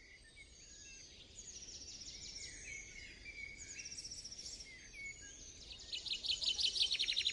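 Wild songbirds singing: repeated high trilled phrases, the loudest a fast run of notes falling in pitch near the end, over a faint low background rumble.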